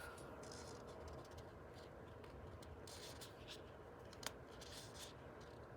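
Near silence with faint rustling of paper pages being handled, and one small click about four seconds in.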